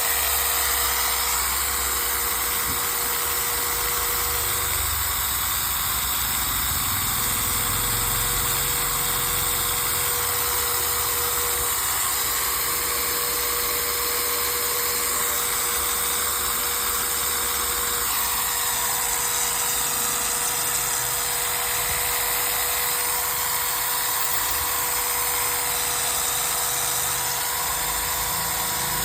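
Maktex 230-watt electric drill running steadily at one speed, with a constant motor tone over a wide hiss.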